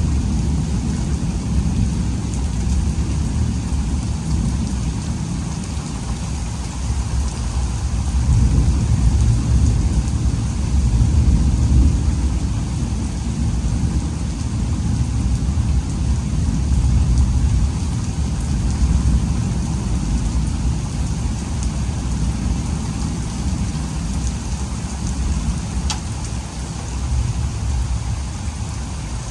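Heavy thunderstorm rain falling steadily, under a deep low rumble that swells and eases. One sharp tick near the end.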